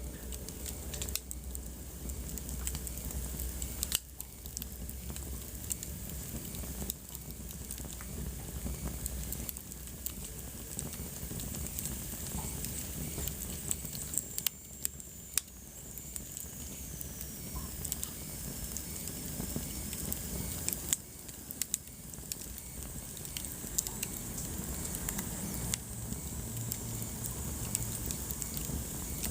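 Wood fire burning in a fireplace: a steady hiss with frequent irregular crackles and pops. A faint high whistle slides downward about halfway through.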